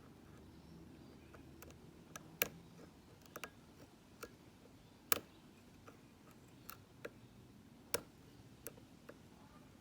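Lock pick and tension wrench clicking in the keyway of a Mako padlock while its pins are picked: a dozen or so light, irregular clicks, the loudest about two and a half, five and eight seconds in.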